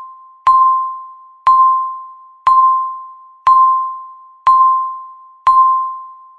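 Countdown timer's electronic beep ticking off the seconds: a single high ding struck sharply and fading away, once a second, six times. These are the last seconds of the countdown before zero.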